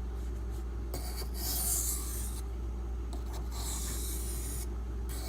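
A Kershaw Crown knife's 8Cr13MoV steel blade is drawn across a Beston 500-grit water stone in light alternating strokes to break off the burr. Two long, hissing scrapes about a second each, with quieter pauses between, over a steady low hum.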